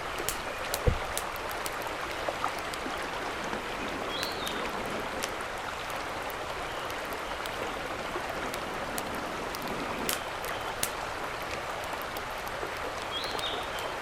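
A mountain stream running steadily, with scattered sharp clicks over it and a dull thump about a second in. Two short high chirps come through, at about four seconds and again near the end.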